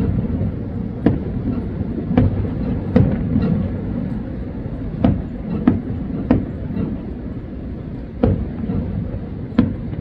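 Aerial fireworks shells bursting in the distance: about eight sharp bangs, irregularly spaced a second or two apart, over a steady low rumble.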